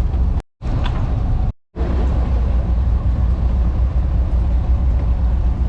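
A motor running steadily with a low rumble. The sound drops out completely twice for a moment in the first two seconds.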